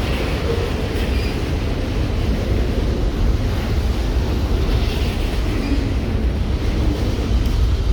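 Train passing with a steady low rumble that does not change.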